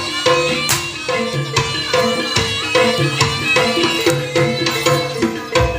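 Live jaranan (kuda lumping) ensemble music: hand drums beating a steady rhythm under held, pitched melody notes.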